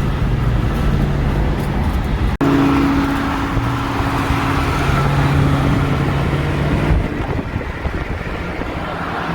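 Straight-piped 2016 Ford Mustang GT's 5.0 V8 exhaust, with an X-pipe and resonator delete, droning steadily while cruising, heard through an open car window with road noise. The sound cuts out for an instant about two seconds in, and near the end the drone gives way to plain road and wind noise.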